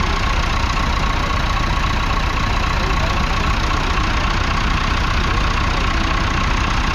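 A 1982 Trantor Series I tractor's 3.9-litre four-cylinder diesel engine idling steadily.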